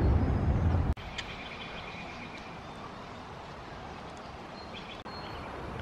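A loud low rumble cuts off abruptly about a second in. Then comes quiet outdoor ambience with birds chirping in short bursts.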